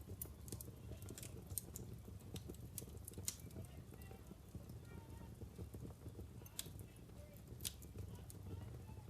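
Wood fire crackling in a fireplace: irregular sharp pops and snaps from the burning logs over a low steady rumble, with a louder pop about three seconds in and another near the end.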